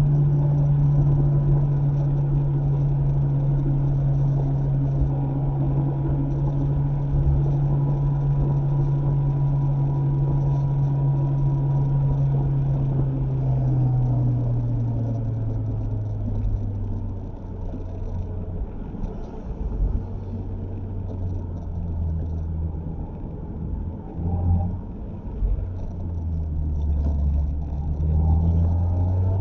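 Mazda MX-5 ND's four-cylinder engine running under way, with road noise, heard from inside the car. The engine note holds steady for about half the time, then drops as the revs fall, stays lower and uneven, and rises again near the end as the car picks up speed.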